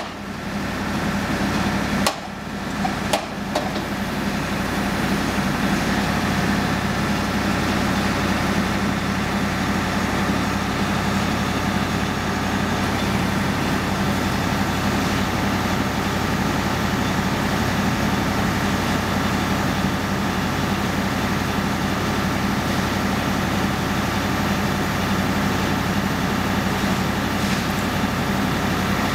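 Diesel engine of a Wirtgen W 1500 cold milling machine running steadily, with a few sharp knocks about two to three seconds in.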